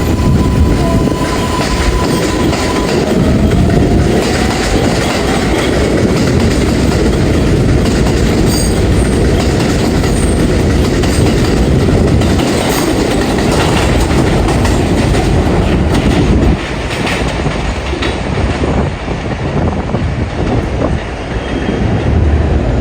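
R142A subway train running along the track, its wheels clacking over the rail joints with a steady rumble and a thin whine in the first few seconds. The loudness drops suddenly about two-thirds of the way through.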